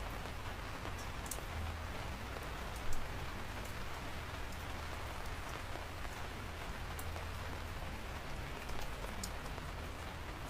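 Steady rain falling, with scattered sharp drop ticks close by and one louder drop strike about three seconds in.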